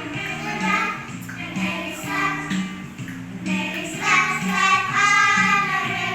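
A group of young children singing together over instrumental accompaniment with a steady beat.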